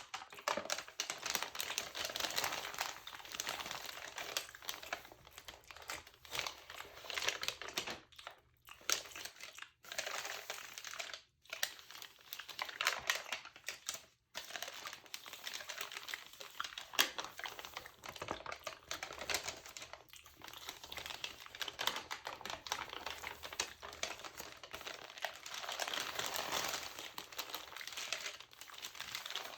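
Pages of a textured LCBO magazine crinkled close to the microphone: a dense, continuous run of small crackles, broken by a few brief pauses, mixed with small wet mouth clicks.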